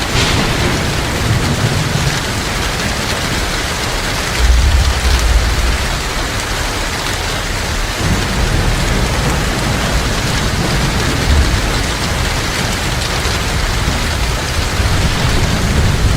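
Heavy rain falling steadily, with a low rumble of thunder about four and a half seconds in.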